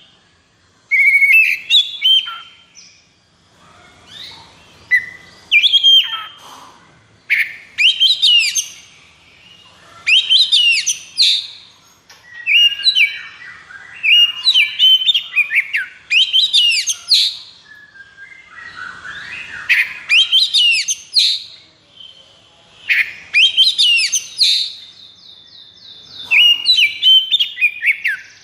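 Oriental magpie-robin (kacer) singing loud, rapid phrases of sweeping whistles one after another with only short pauses, with a held buzzing trill near the end. It is the agitated, high-arousal 'konslet' fighting song of a male magpie-robin.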